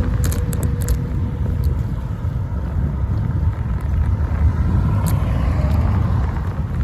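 Wind rushing over a phone microphone mounted on a moving bicycle, with road rumble and passing motor traffic. There are a few light clicks in the first second and again about five seconds in.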